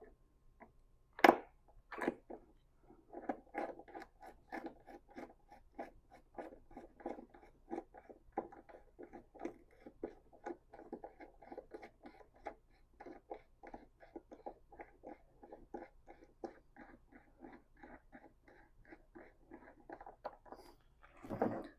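A sharp metal knock about a second in, then a long run of quick, evenly spaced ratchet clicks, about three to four a second, as a ratchet wrench tightens the battery hold-down bracket bolt.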